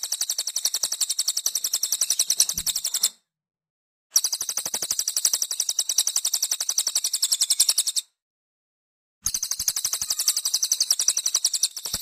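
Cililin bird song: high, rapid trills of quickly repeated notes in phrases about four seconds long, broken twice by pauses of about a second.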